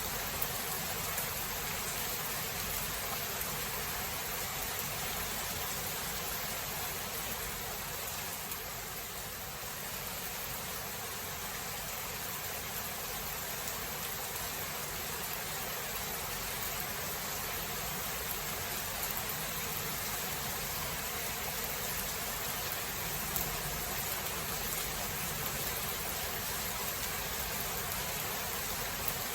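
Steady rain from a thunderstorm, an even hiss with a few faint scattered ticks of drops.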